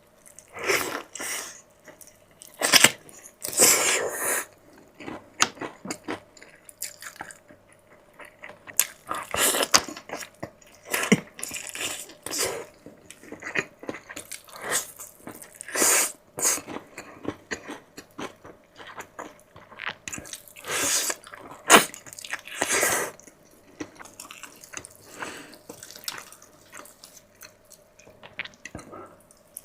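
Close-miked eating: irregular wet chewing, biting and mouth sounds, with louder bites every few seconds.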